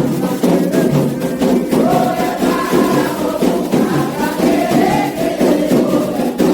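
Candomblé ritual music: a group of voices singing a chant for the orixás together over steady drumming and hand percussion.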